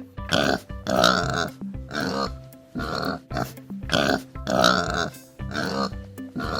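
Domestic pig grunting repeatedly, short grunts coming about once or twice a second.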